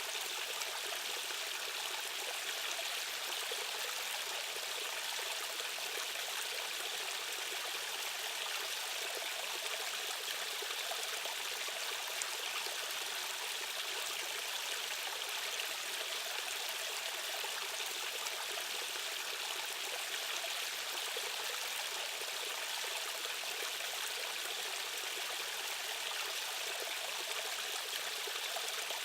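Rushing stream water running over rapids, a steady hiss-like rush with no change.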